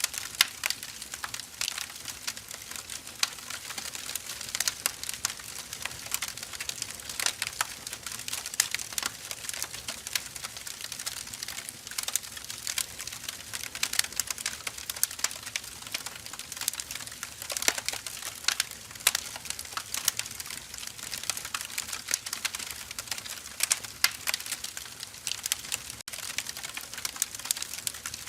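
Burning firewood logs crackling and popping, with irregular sharp snaps over a steady hiss of the fire.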